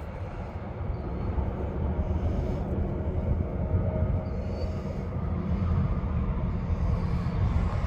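Ford F550 truck's engine idling: a steady low rumble.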